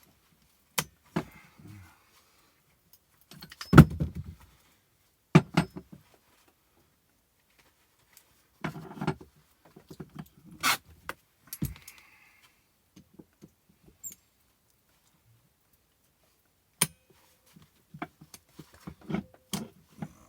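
Irregular knocks and clatter, several blows spaced by pauses, the loudest about four seconds in: an old handle being knocked free of an axe head.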